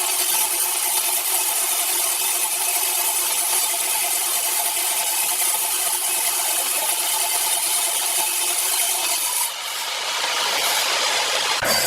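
Power saw cutting through wood, running steadily with a constant hum under the cutting noise. About nine and a half seconds in the sound dips briefly, then returns harsher and hissier.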